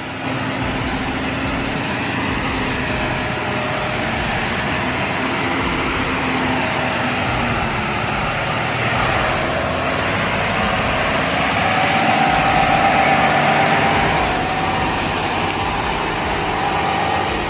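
Heavy truck's engine running as it moves, with steady road and engine noise; a whine rises and grows louder about ten seconds in, then eases off.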